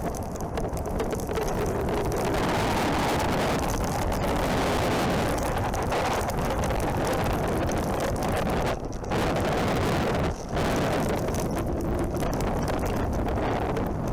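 Wind buffeting a helmet-mounted microphone over a motorcycle's running engine while riding. The noise drops out briefly twice, about nine and ten and a half seconds in.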